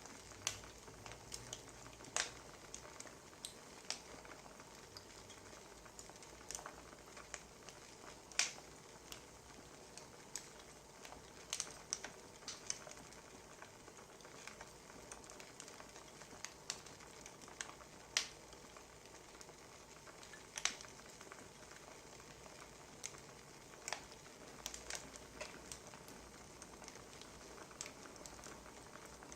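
Wood fire crackling: irregular sharp pops and snaps, a few louder than the rest, over a steady soft hiss.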